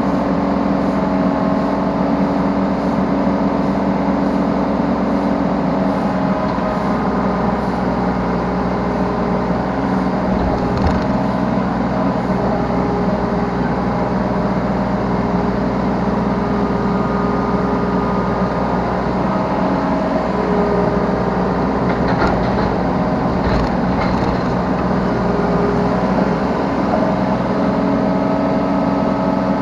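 Yanmar B3Σ 3-tonne mini excavator's diesel engine running steadily, heard from the operator's seat, its pitch shifting a little as the hydraulics are worked. A few short knocks are heard about a third of the way in and twice near the end.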